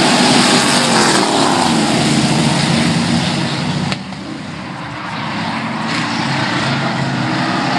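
Engines of a field of racing trucks running on the track, passing by with their pitch dropping. The sound drops suddenly about halfway through, then builds again as the pack comes back around.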